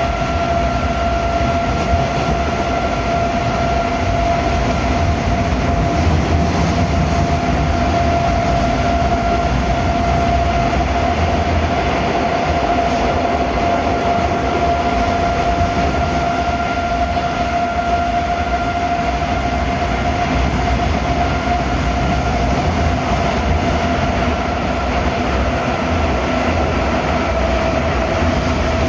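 81-740/741 Rusich metro train running at steady speed through the tunnel: a continuous rolling rumble and hiss, with a steady high-pitched tone held over it.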